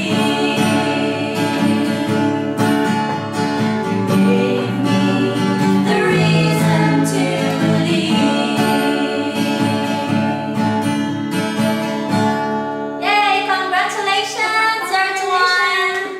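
Singers performing a song with acoustic guitar accompaniment. Near the end the voices sing out with a wavering vibrato as the song closes.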